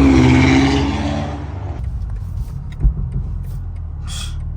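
BMW M4 Competition's twin-turbo inline-six running at a steady low drone while driving. A loud rush of noise over it in the first second or so fades out, and there is a single short thump about three seconds in.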